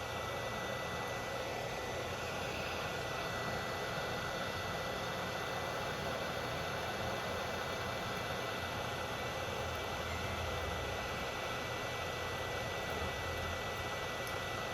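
Steady hiss and hum, like a machine or blower running, with a faint steady high tone and no change in level.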